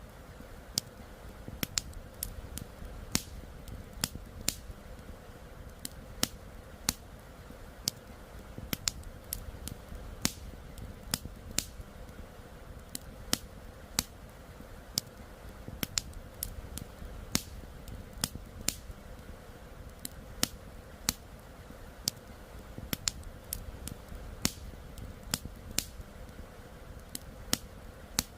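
Campfire crackling, with sharp irregular pops and snaps about two or three times a second, over the steady low rush of flowing river water.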